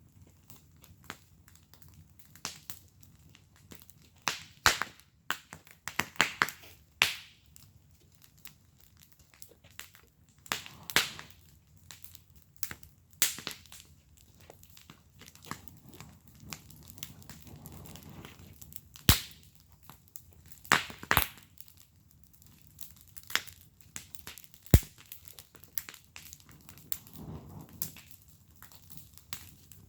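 Wood fire burning in a fire pit, crackling with irregular sharp pops and snaps over a low, soft rushing of the flames.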